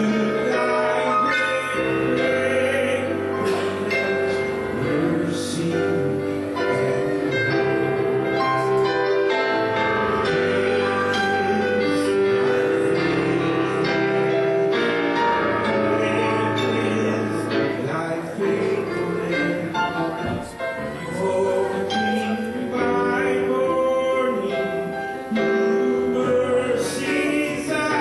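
Church music: several voices singing a hymn together over instrumental accompaniment.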